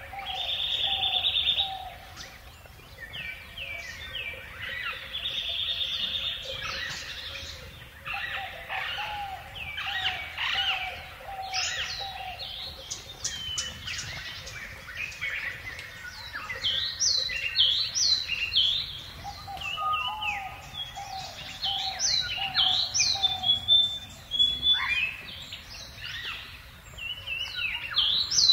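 Several birds chirping and singing at once: many quick high chirps and short trills over a lower, repeated call.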